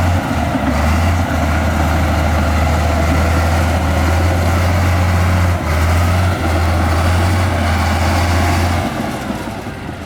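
Heavy earthmoving machinery's diesel engine running steadily with a deep hum, which drops off about nine seconds in.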